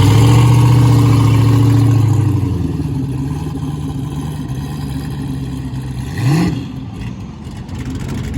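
Twin-turbo Chevrolet LS V8 engine held at a steady speed, then dropping back to a quieter run about two and a half seconds in; a short rev rises sharply a little after six seconds in.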